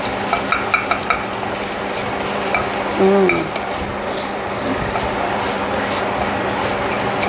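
Butter beans and onion frying in an enamelled cast-iron pot with a steady sizzle, while a wooden spatula stirs and scrapes through them, knocking lightly against the pot a few times in the first second. A brief pitched sound comes about three seconds in.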